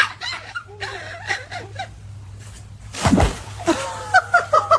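A person laughing in short repeated snickers, about three a second, in the last part. A single short dog bark right at the start and a loud thump a little after the middle.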